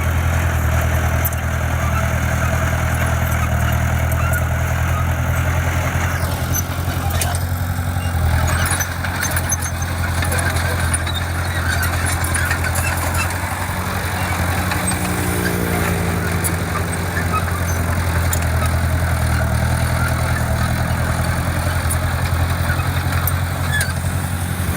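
Diesel engine of heavy earthmoving equipment running steadily, with a brief shift in pitch about two-thirds of the way through.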